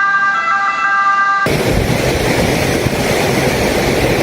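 A siren sounding a steady chord of several tones for about the first second and a half. It then cuts to a loud, even rushing noise of storm wind and water.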